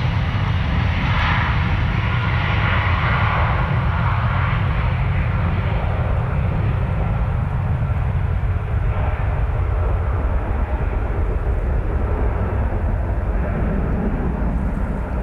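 Jet airliner engines running, their higher-pitched noise loudest a few seconds in and then slowly fading, over a steady low rumble.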